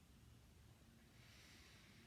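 Near silence: room tone, with a faint breath-like hiss in the second half.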